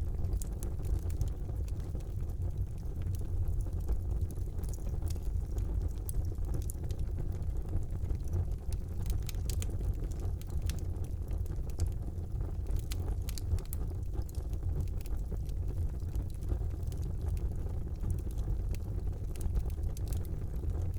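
Fire burning in a fireplace: a steady low rumble of the flames with frequent small, irregular crackles and pops.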